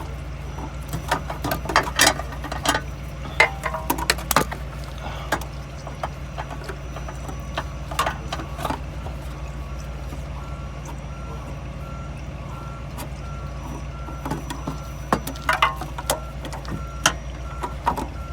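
Sharp clinks and knocks of hand work at the oil filter under the car, in two clusters, near the start and again near the end. From about three quarters of the way in, a vehicle's reversing beeper sounds about twice a second over a steady low hum.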